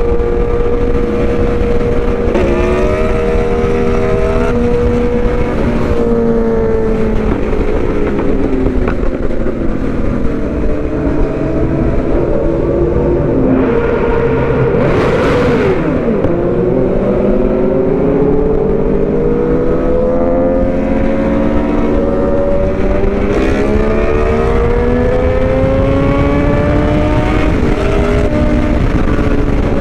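Suzuki GSX-R750's inline-four with aftermarket headers and slip-on exhaust running under way, its pitch rising and falling as it accelerates and shifts, over steady wind rush on the microphone. A brief loud rush comes about halfway through.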